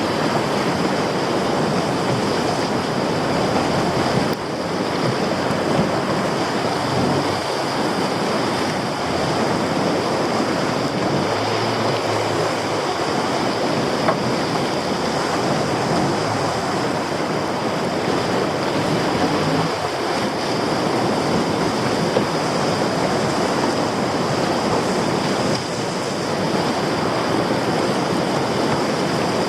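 Heavy sea swell surging and washing over rocks and around a small boat, a steady rush of water with wind buffeting the microphone. A low boat engine note shows through at times underneath.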